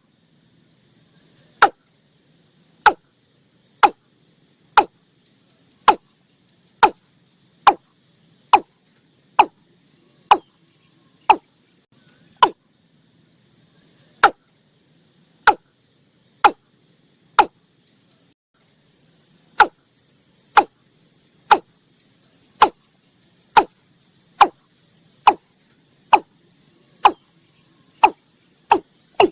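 Watercock calling: a long series of short, hollow notes that slide downward in pitch, about one a second, with a pause of about two seconds past the middle. Crickets trill faintly behind.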